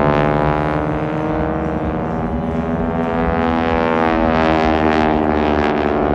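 Pratt & Whitney R-1340 nine-cylinder radial engines and propellers of two SNJ/T-6 Texan trainers droning through an aerobatic pass. Their pitch falls and rises as the aircraft go by, and the two engines' tones cross near the middle.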